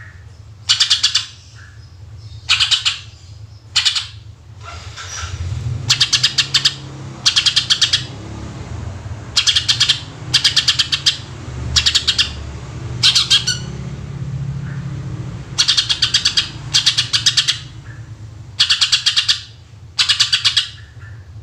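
Cucak ijo (green leafbird) singing in short, loud, harsh trilled bursts of its 'tembakan' shot-like call, about a dozen bursts each under a second long, one every second or two. A low hum runs underneath through the middle.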